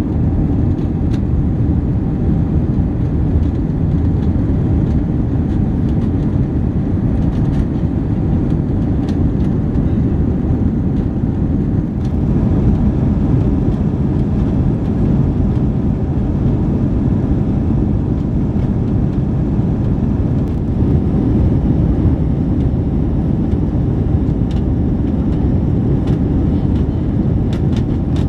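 Steady low rumble of an Airbus A321's cabin: jet engine and airflow noise heard from an economy seat, with a faint steady tone above it.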